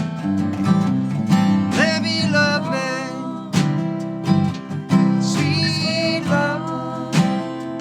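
Live band music: strummed acoustic guitar with a singing voice over it.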